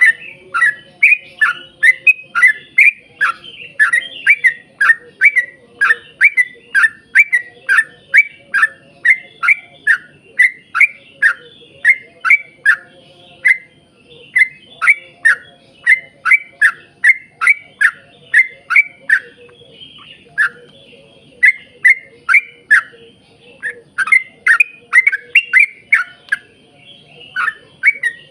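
Yellow-vented bulbul (trucukan) singing a long, fast run of short repeated notes, about two to three a second, broken by a few brief pauses.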